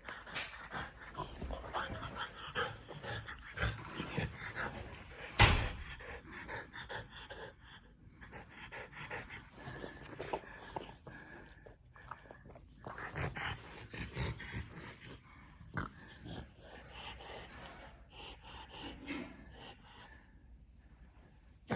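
A French bulldog panting, with scattered small knocks and one sharp knock about five seconds in.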